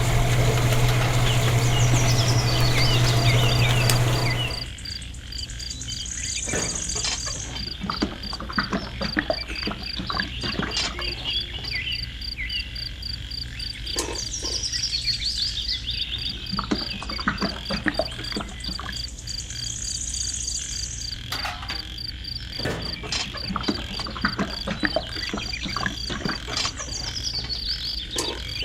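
A loud steady low hum cuts off about four and a half seconds in. Outdoor night-type ambience follows: frogs croaking, an insect's fast, even high trill, and occasional high bird chirps.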